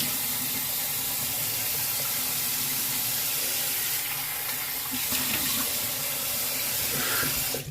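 Bathroom tap running steadily into the sink while the face is rinsed with water after a shave, the flow cut off sharply at the end.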